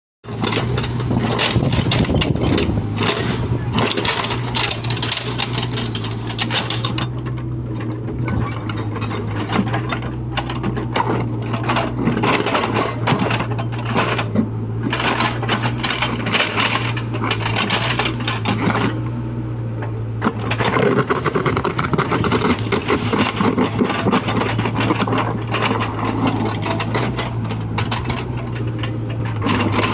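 Mini excavator's engine running at a steady pitch, with irregular clattering and knocks over it throughout.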